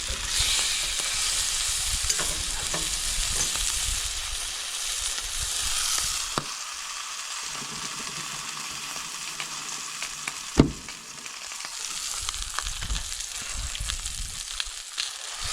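Fish, likely salmon, frying in a pan with a steady sizzle that eases a little partway through. A sharp knock about ten and a half seconds in is the loudest sound.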